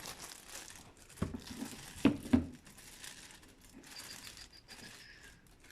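Packaging being handled and unwrapped, with crinkling and rustling throughout and three light knocks about a second and two seconds in.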